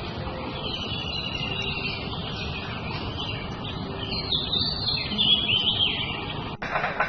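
Several birds chirping and twittering over a steady low background hum, with the calls busiest about four to six seconds in. About six and a half seconds in, the sound changes abruptly.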